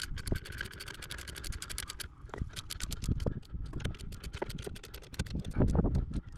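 Rapid, irregular mechanical clicking and scraping, with a louder cluster of knocks near the end.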